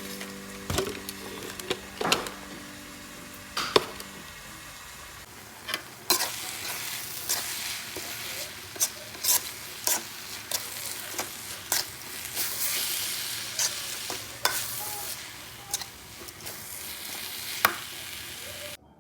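Ground red chilli paste sizzling as it fries in oil, with a spatula stirring and scraping the pan in frequent sharp strokes.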